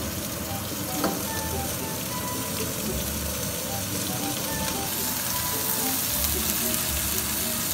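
Sliced kielbasa and pancakes sizzling in a frying pan, a steady hiss, with one sharp click about a second in.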